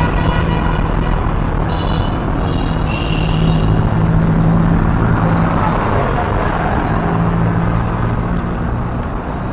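Motorbike engine running steadily under a constant haze of road and wind noise while riding in city traffic. A high-pitched steady tone sounds over it for about a second and a half, about two seconds in.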